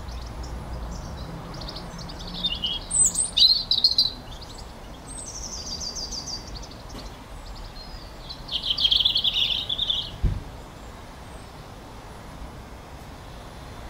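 Birds singing: a run of sharp chirps, then a high steady trill, then a lower rapid trill, over a steady low outdoor hum. A single soft low thump follows the last trill.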